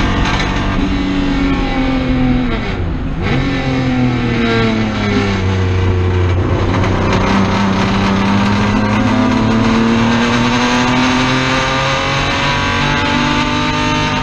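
Race car engine heard from inside the cockpit at speed: its pitch drops sharply about three seconds in, as when braking and downshifting for a corner, then climbs steadily as the car accelerates back up through the revs.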